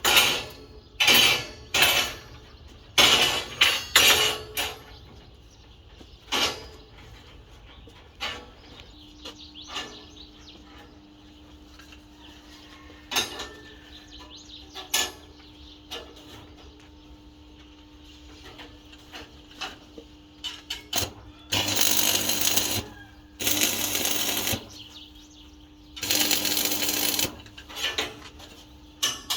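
Metalworking in a workshop: a quick run of sharp metal knocks with a ringing tail, then scattered single knocks. Near the end come three harsh bursts of noise, each about a second long, over a faint steady hum.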